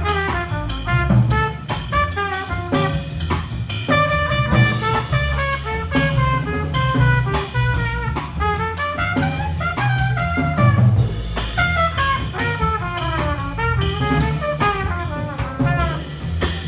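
Small jazz band playing an instrumental passage: trumpet and clarinet melody lines over double bass and a drum kit, with frequent drum strokes.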